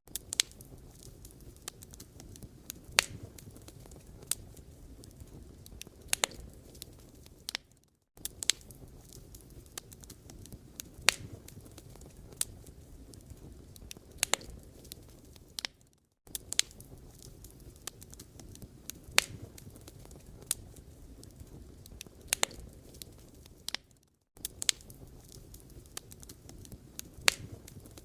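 Firewood burning, crackling steadily with irregular sharp pops over a low hiss. The sound fades out briefly about every eight seconds.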